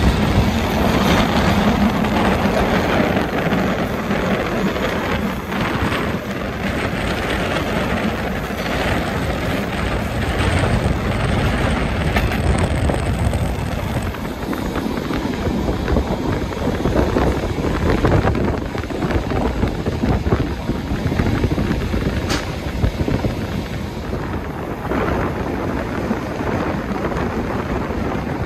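A passenger train running: a steady rumble of wheels on rail mixed with rushing air, with a few sharp knocks from the track scattered through it.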